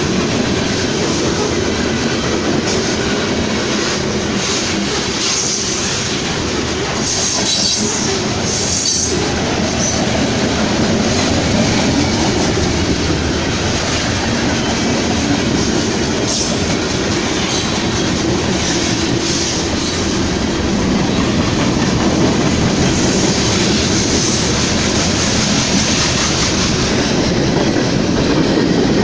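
Railroad cars rolling steadily past at close range, wheels clicking over the rail joints, with bouts of high-pitched wheel squeal.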